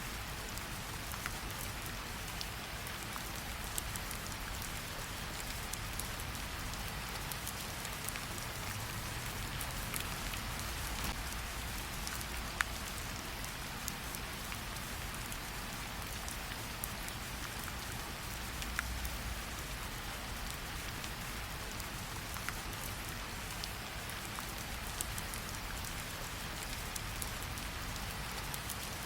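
Steady rain mixed with a crackling campfire: an even hiss with scattered sharp pops and ticks over a low rumble.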